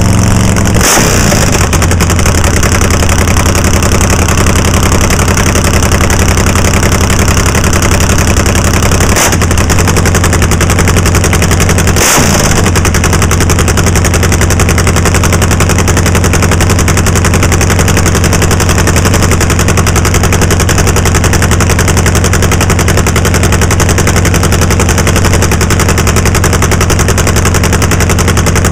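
Nitromethane-fuelled Harley V-twin drag racing engine running very loud with a rapid, gunfire-like crackle, held steady with three short sharp breaks in its note, about a second in, around nine seconds and around twelve seconds. It is the engine's first run of the season after a new clutch hat was fitted.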